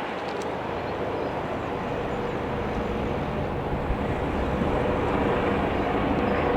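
Eurocopter EC135 P2+ helicopter flying over, its rotor and turbine noise growing steadily louder.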